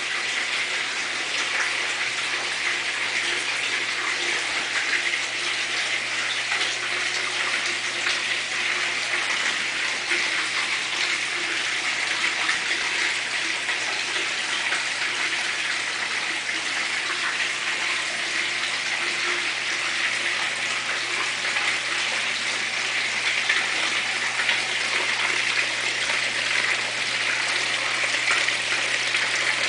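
Water splashing steadily down a galvanized-steel waterfall sculpture, an even rushing patter, with a steady low hum underneath.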